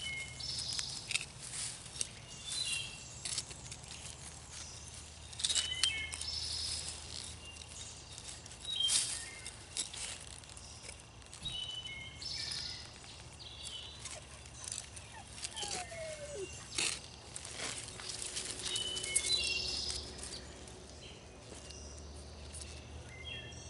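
Shovel digging into garden soil, with scattered scrapes and crunches as the blade cuts in and lifts the garlic. Birds chirp in short repeated calls throughout.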